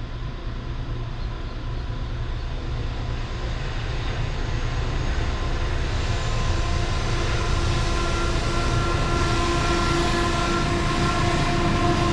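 Coal train approaching, its diesel-electric locomotives growing steadily louder, with a steady engine drone and whine coming up about halfway through over a low rumble.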